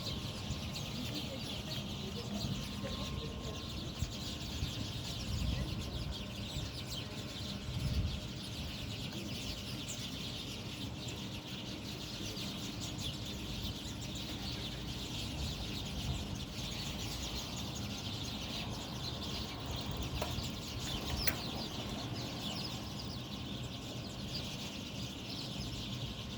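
A flock of birds chirping continuously, many short high calls overlapping into a steady chatter.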